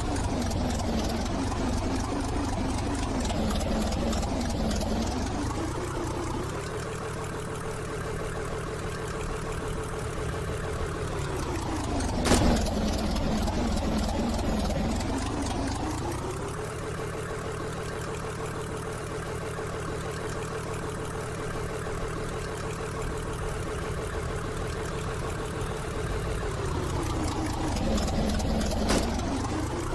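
A train's engine running with a steady hum that shifts between two pitches: it drops about 12 seconds in, climbs back around 15 seconds, holds, and drops again near the end. Two short sharp clicks come at the pitch drops.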